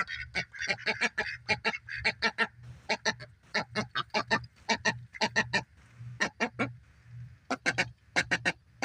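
Pet duck making rapid, short harsh calls, three or four a second with a brief pause past the middle, the sound of an angry, aggressive duck.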